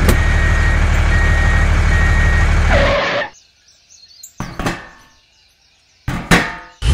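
A mini tractor's small engine runs steadily with a low pulsing, then cuts off abruptly about three seconds in. After that there are only two brief knocks, a second and a half or so apart.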